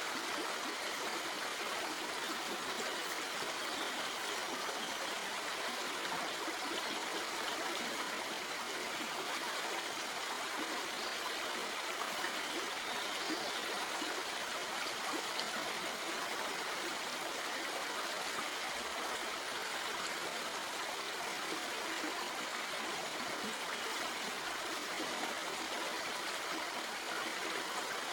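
Stream water flowing steadily over rocks: an even rushing and splashing that stays unchanged throughout.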